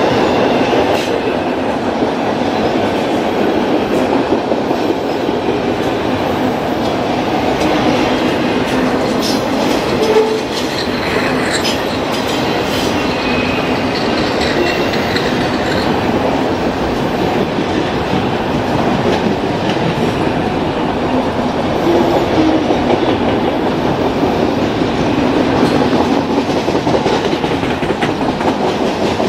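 Freight train of autorack cars rolling steadily past at close range: a continuous rumble and clatter of steel wheels on the rails.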